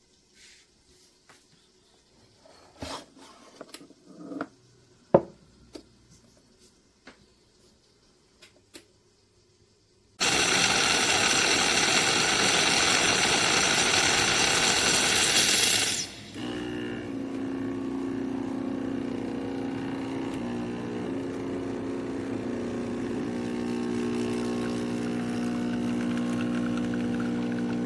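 Espresso machine being handled, with scattered small clicks and knocks, then a loud steady hiss for about six seconds that cuts off suddenly. A steady pump hum follows, its pitch shifting slightly a few times.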